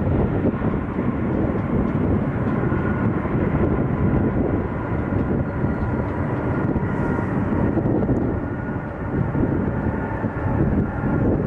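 Jet airliner engines running: a loud, steady rush with a faint high whine held through it.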